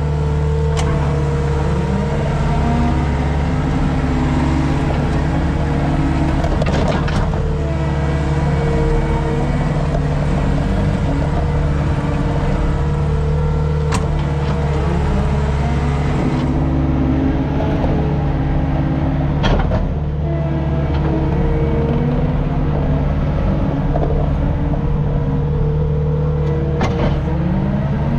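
Skid steer's diesel engine running steadily under throttle while it works, with a whine that rises in pitch several times and a few sharp clanks.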